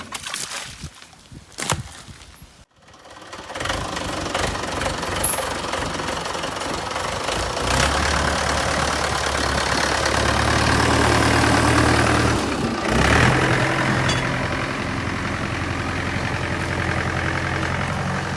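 A few sharp knocks, then a diesel tractor engine comes up about three seconds in and runs steadily, with a change in its note about two-thirds of the way through.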